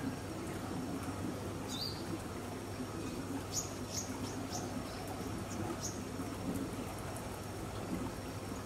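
Birds chirping in a tropical garden: one short rising call about two seconds in, then a quick run of about six high chirps in the middle, over a steady background with a low hum.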